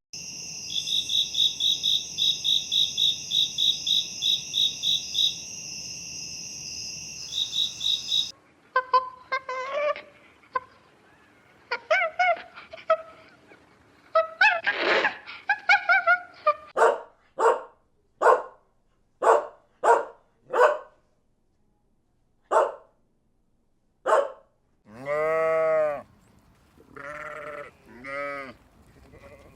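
A run of young farm animal calls. The first eight seconds hold a fast high rhythmic chirping over a steady hum, the middle holds a string of short calls, and several bleats come near the end.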